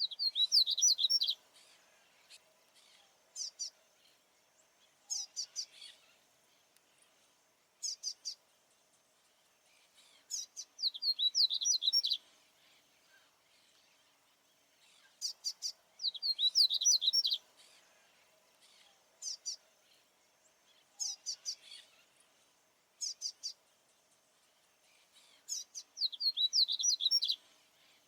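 Male papa-capim baianinho, a Sporophila seedeater, singing its territorial song over and over. Each phrase opens with a few short, very high notes and runs into a fast twittering trill. Full phrases come about every five seconds, with shorter bursts of notes between them.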